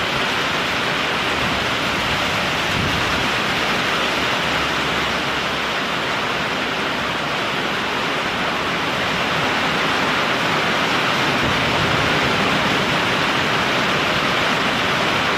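Heavy thunderstorm downpour: rain pouring down steadily, so loud it drowns out the thunder.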